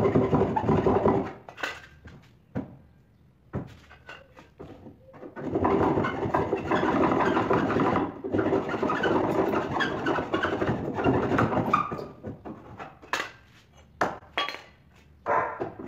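A board being sawn by hand, with a long stretch of steady sawing in the middle. Between and after the sawing there are sharp knocks and clatter of wood being handled.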